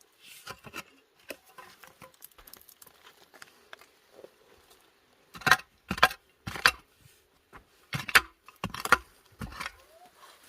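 Digging in soil to harvest potatoes: scattered light scrapes and ticks, then a run of loud strikes into the earth about halfway through and another run near the end.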